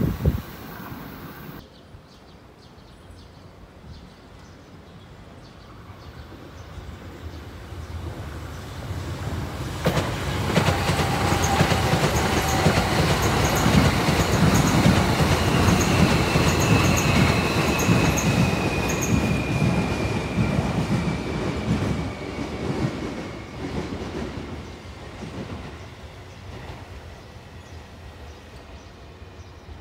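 Electric commuter train passing, its wheels rumbling and clacking over the rail joints. It builds from about eight seconds in, is loudest in the middle and dies away near the end. Through the loudest part a thin wheel squeal slowly falls in pitch.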